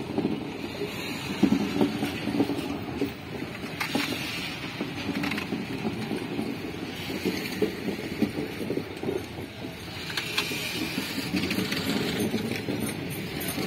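Passenger train's coaches rolling slowly past on the track: a steady rumble of wheels on rail, with a few sharp clanks from the running gear.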